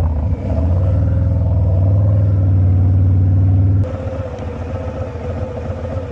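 Harley-Davidson Fat Boy's Milwaukee-Eight 114 V-twin pulling hard under throttle, its note climbing slowly for about three and a half seconds. Near the four-second mark it drops suddenly to a quieter, steady run.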